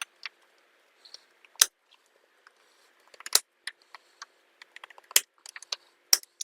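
Sharp clicks and light taps of small metal tools and parts being handled while a motorcycle carburettor is taken apart, a few louder snaps among many small ticks.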